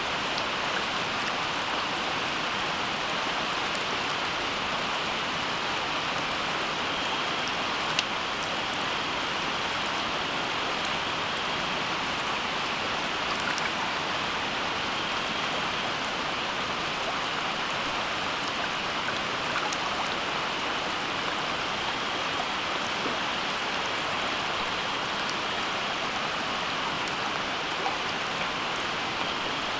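Steady water noise, a even hiss with many scattered sharp drop-like ticks; one tick about eight seconds in is louder than the rest.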